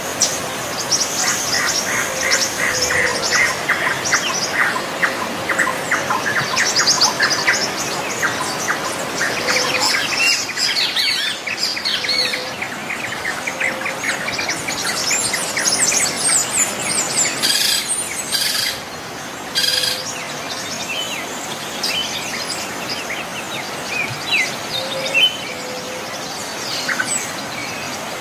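Several birds chirping and calling together: a fast repeated chirping for roughly the first ten seconds, then scattered high whistles and short calls.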